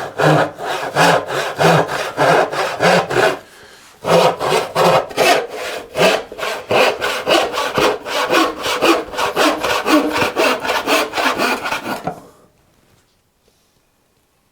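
Hand saw cutting wood in steady back-and-forth strokes, about three a second. It breaks off briefly between three and four seconds in, resumes, and stops about twelve seconds in.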